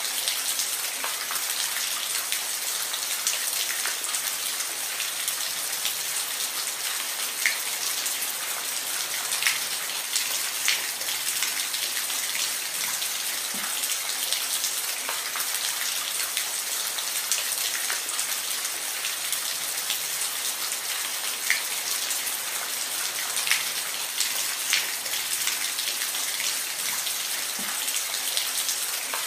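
Steady rain, a dense even hiss with individual drops ticking sharply here and there on a hard surface.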